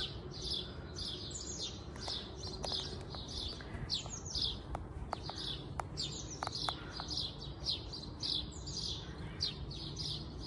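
Songbirds chirping without pause: a quick run of short, falling chirps, several a second, with a few faint clicks about the middle.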